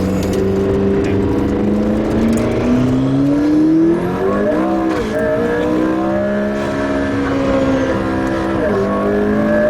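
McLaren P1's twin-turbo V8 under hard acceleration, its pitch climbing steadily for the first few seconds, then dropping briefly and pulling again twice, about halfway and near the end, as it shifts up.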